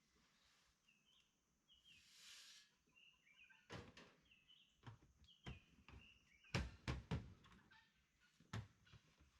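Faint birds chirping, with scattered knocks and thumps; the loudest is a cluster of several knocks about two-thirds of the way through.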